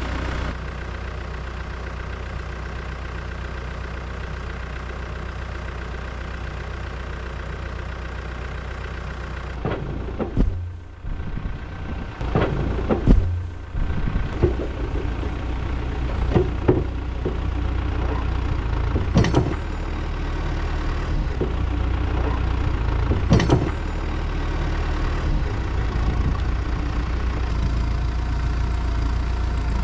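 A loader's diesel engine running steadily under work, with a string of loud clunks and knocks from about ten seconds in as the machine handles a heavy log.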